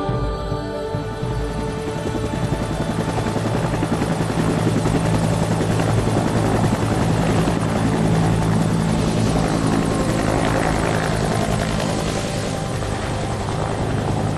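Aircraft passing overhead: a steady engine and propeller drone with a fast flutter, growing louder toward the middle and easing off near the end.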